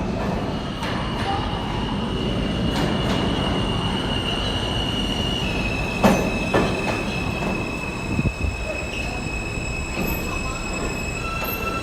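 New York City subway train's wheels squealing on the rails: a steady high squeal that steps down slightly in pitch about halfway through, over the rumble of the moving train. A sharp knock about six seconds in is the loudest moment.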